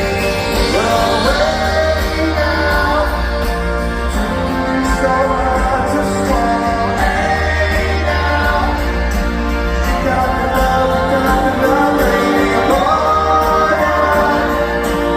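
A live rock band playing with sung vocals, held notes gliding over steady bass and guitars, as heard in a concert hall.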